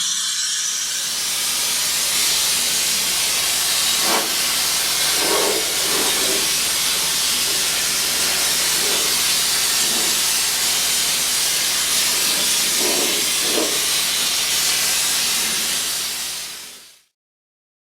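Compressed-air spray gun spraying Noxudol rust-proofing compound, a steady hiss with a few faint knocks, cutting off suddenly near the end.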